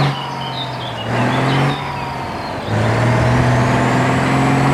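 Truck engine sound effect, running and revving, its low drone stepping up and down in pitch several times.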